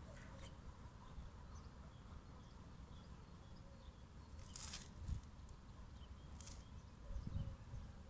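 Faint outdoor ambience: a low steady rumble with scattered short, high bird chirps, the clearest two about halfway through and a little later.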